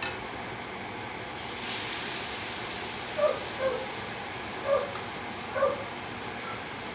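Grated-potato pancake batter frying in hot oil: a sizzle sets in about a second and a half in and keeps going steadily. A few short pitched taps sound over it.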